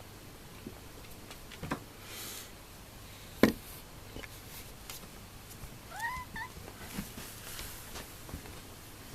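A domestic cat gives a short, rising meow about six seconds in, between scattered clicks and knocks. The loudest knock comes about three and a half seconds in.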